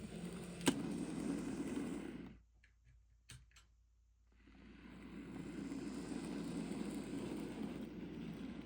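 Bachmann Percy model locomotive running on the track pulling two model goods wagons, its wheels and motor making a steady rumble with a sharp click about a second in. The rumble stops about two and a half seconds in, leaving a quiet gap with a couple of faint clicks, then builds back up about two seconds later.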